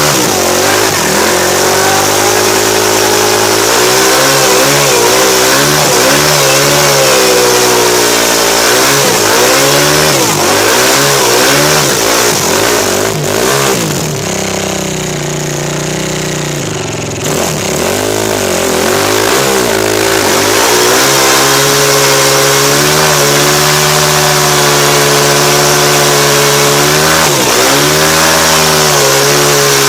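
KTM 450 SX-F's single-cylinder four-stroke engine revved hard during a burnout, the revs rising and falling over and over. The revs drop for a few seconds about halfway through, then are held high and steady, with a brief dip near the end.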